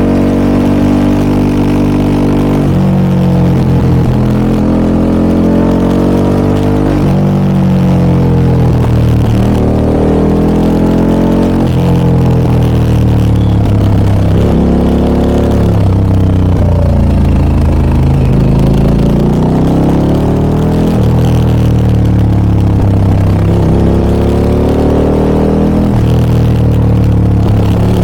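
Harley-Davidson Pan America 1250 Special's Revolution Max V-twin running through a Scorpion aftermarket muffler under way. The engine note climbs and falls over and over, with several abrupt steps in pitch.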